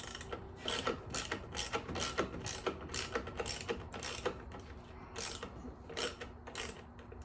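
Hand ratchet clicking in repeated short strokes, about two a second, as a fastener is turned out of the leaf blower.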